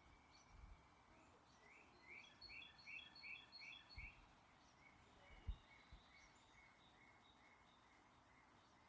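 Faint birdsong: a songbird repeats a short note in a quick run, then another run of evenly repeated notes follows, over a steady background hiss. A few brief low thumps, the loudest about five and a half seconds in.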